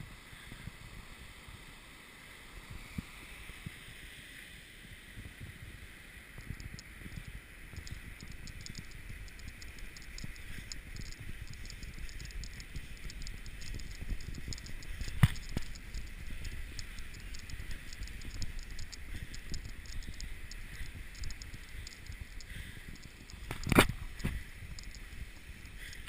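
Low wind rumble and rustling against a GoPro's microphone as it is carried on a run, with faint rapid ticking through most of it and two sharp knocks, one about midway and one near the end.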